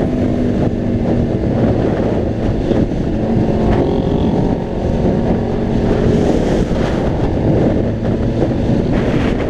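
Honda CBR600RR's inline-four engine running as the motorcycle is ridden along, under a steady rush of wind noise on the microphone.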